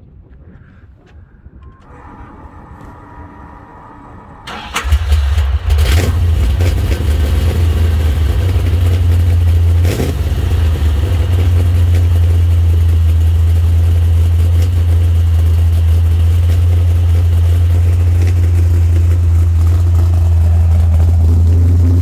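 A 509-cubic-inch big-block V8 with a solid roller cam is started and catches suddenly about four and a half seconds in. It then idles steadily and loudly through dual 3½-inch exhausts with Edelbrock mufflers.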